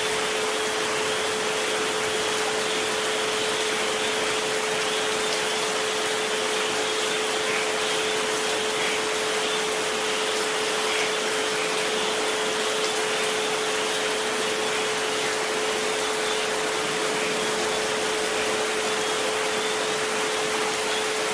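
Steady rain noise with a pure tone held constantly under it, the 432 Hz tone, and a fainter 528 Hz tone just above it.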